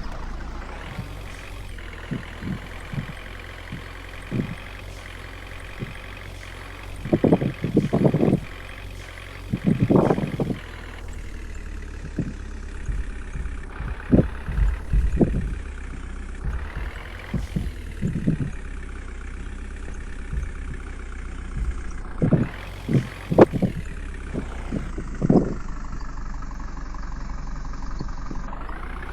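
Water tanker truck engine running, its pitch rising several times, with irregular loud thumps and knocks.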